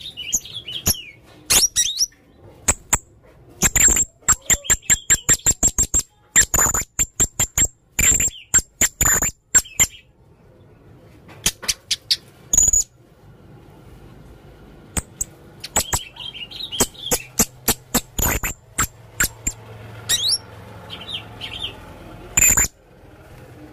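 Male blue-crowned hanging parrot (serindit) calling: rapid runs of short, sharp, shrill chirps, with a brief lull partway through and sparser calls later on.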